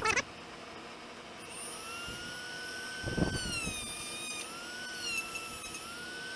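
Small high-speed rotary power tool starting up about a second in and running with a steady high whine, its pitch sagging and recovering midway. A brief knock sounds about three seconds in.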